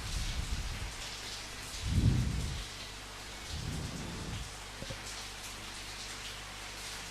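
Steady rain falling, with low rolls of thunder rumbling underneath; the loudest roll comes about two seconds in and a weaker one about four seconds in.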